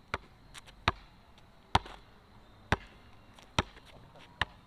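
A basketball being dribbled slowly on a hard court: six sharp bounces, evenly spaced a little under a second apart.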